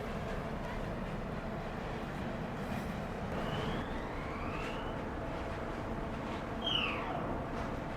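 Steady low drone of a ferry's engines and machinery. A few brief whistling glides sound over it, two rising about halfway through and a louder falling one near the end.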